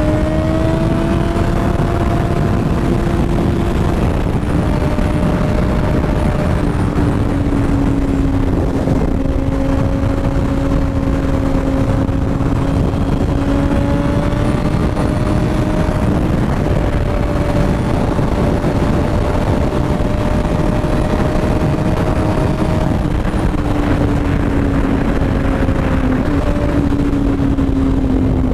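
2006 Yamaha R1's inline-four engine running at a steady cruising speed, its pitch drifting only slightly up and down, under heavy wind rush.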